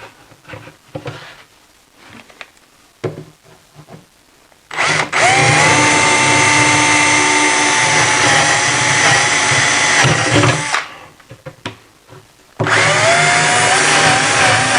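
Electric drill boring the screw holes for the cabinet door pulls, running twice: first for about six seconds from a few seconds in, then again near the end. Each run spins up quickly to a steady whine. Light handling knocks come before the first run.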